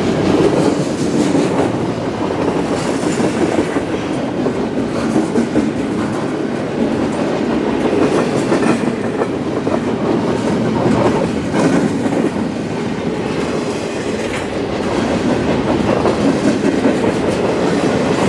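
Double-stack container train's freight cars rolling past: a steady rumble of steel wheels on rail, with repeated clacking as the wheels cross rail joints.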